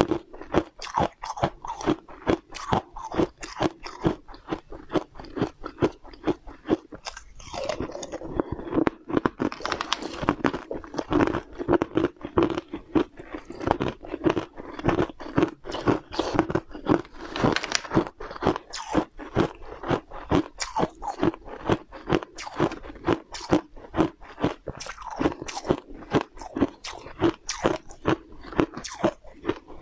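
Close-miked crunching and chewing of a mouthful of small round translucent food balls, with several crisp crunches a second.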